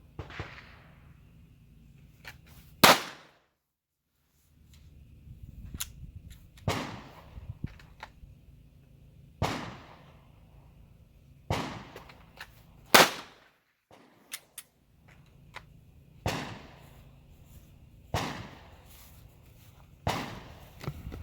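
Single gunshots at a shooting range, about nine in all, spaced a couple of seconds apart, each ringing out briefly. Two are much louder than the others, about three seconds in and again about thirteen seconds in.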